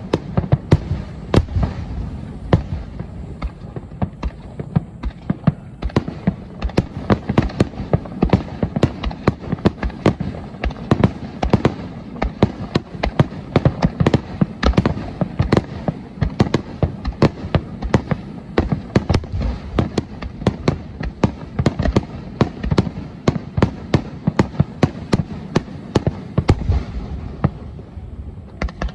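Fireworks display in a dense, continuous barrage of shell bursts: many sharp bangs a second over a steady low rumble.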